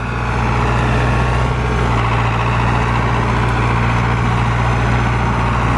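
Tractor engine running steadily, getting louder over the first second and then holding an even, low hum.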